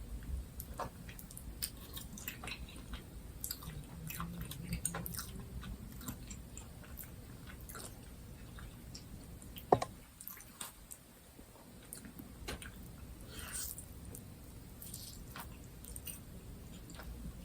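A person chewing and biting into chicken wings, with scattered small wet mouth clicks. A single sharp click or knock about ten seconds in is the loudest sound.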